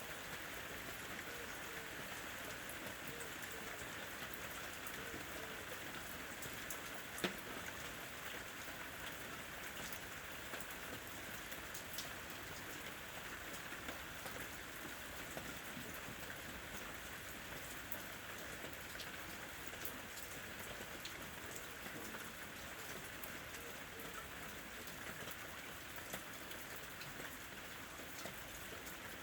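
Steady rain falling on a surface, an even hiss with scattered drop ticks and one sharper tap about seven seconds in.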